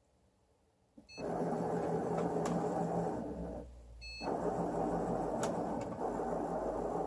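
Excalibur Mirage chess computer beeping, then its robotic X-Y mechanism whirring as the motor-driven electromagnetic head travels under the board to move pieces. About a second in, a beep is followed by a run of motor noise. A second beep comes about four seconds in, and the mechanism starts moving again.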